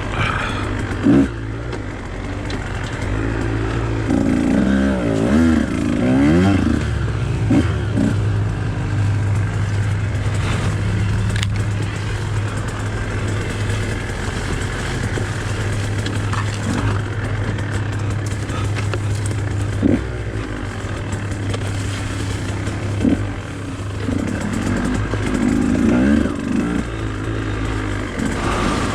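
Husqvarna TE 150 two-stroke dirt bike engine running under load, its pitch rising and falling as the throttle is worked, with a few sharp knocks along the way.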